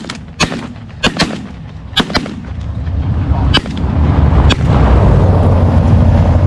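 A volley of shotgun blasts from several hunters firing at geese, about seven shots, irregularly spaced and some in quick pairs, over the first four and a half seconds. A steady low rumble builds from about halfway through and runs on after the shooting stops.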